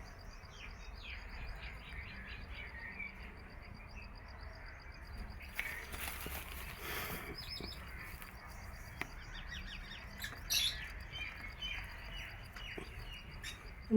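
Small birds chirping over and over, with a steady high insect trill behind them. A brief rustling noise comes about six seconds in.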